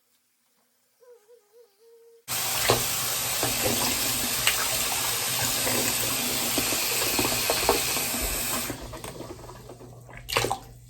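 Water running hard into a bathtub, starting abruptly a couple of seconds in and shutting off about six seconds later. Before it a woman hums a tune softly, and near the end there is a single knock.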